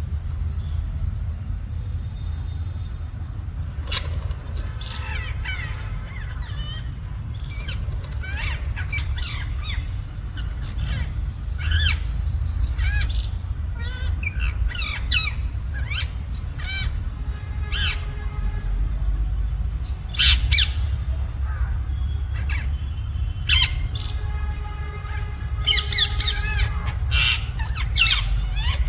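Rose-ringed parakeets squawking in repeated short, harsh calls as they squabble, starting about four seconds in and thickest near the end, over a steady low rumble.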